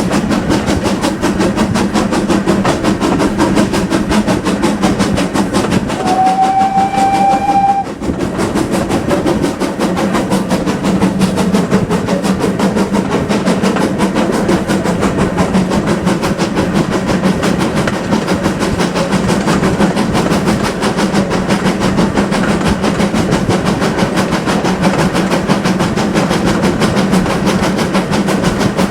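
GWR Manor-class steam locomotive working steadily, with one short steady blast on its whistle about six seconds in.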